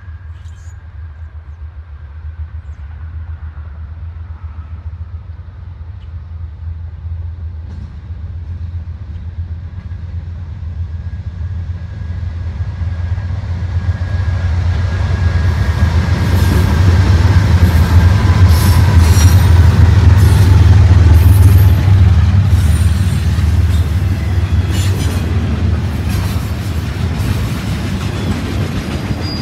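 A BNSF intermodal freight train approaching and passing: the diesel locomotives' deep rumble builds steadily and is loudest as they go by about two-thirds of the way through. Then the double-stack container cars roll past with steady wheel noise and sharp clicks.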